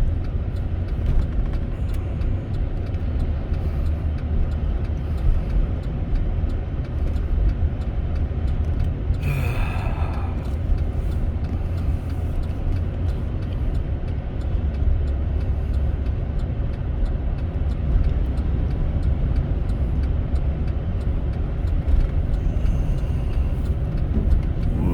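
Steady low engine and road rumble inside a pickup truck's cab, driving slowly at about 20 mph through a blizzard, with wind noise over it. About ten seconds in there is a brief higher-pitched sound.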